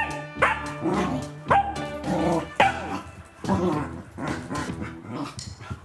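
A dog barking and yipping in short, sharp calls, roughly once a second.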